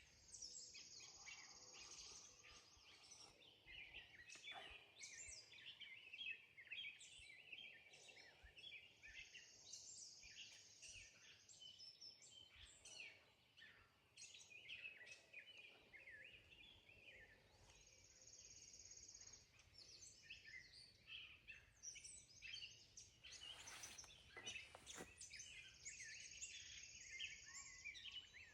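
Faint birdsong: small birds chirping throughout, with a high buzzy trill of about two seconds that comes back roughly every eight seconds.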